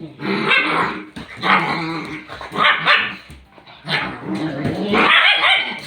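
Dogs play-fighting, growling and barking in about five bursts.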